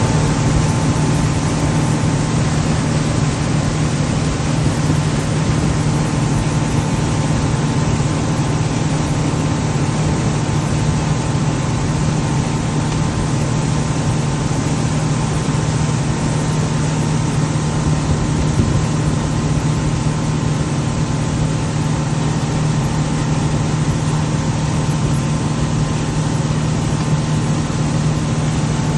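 Mercury 115 Pro XS outboard motor running at a steady speed, its hum unchanged throughout, over a constant rushing hiss.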